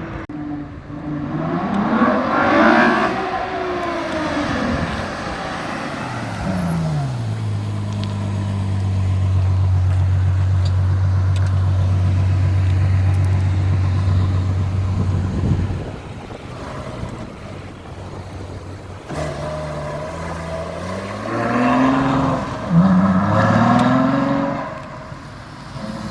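Ferrari sports car engines revving and accelerating past. The pitch rises and falls about two seconds in, a steady low engine note holds for several seconds in the middle, and there are more rising revs near the end.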